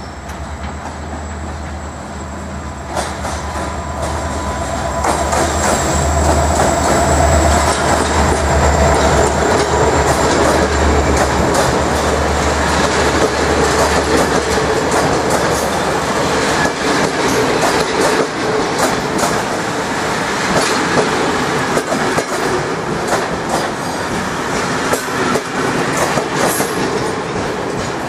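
Diesel locomotive running past with a deep engine drone, then its passenger coaches rolling by close up, wheels clacking over the rail joints with some squeal. The noise swells about five seconds in and stays loud as the coaches pass.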